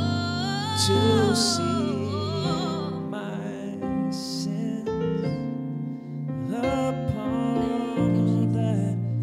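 Slow worship music: sustained keyboard chords with a voice singing a wavering melody without clear words over them.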